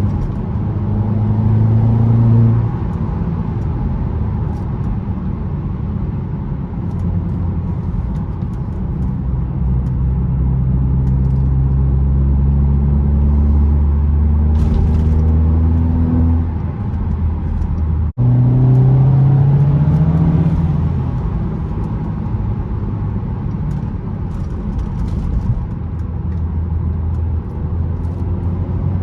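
Audi S3 8P's turbocharged 2.0-litre four-cylinder engine driving along: the engine note climbs steadily for several seconds as the car accelerates in gear, drops away, then climbs again briefly after a very short break about two-thirds of the way through before settling to a steady cruise.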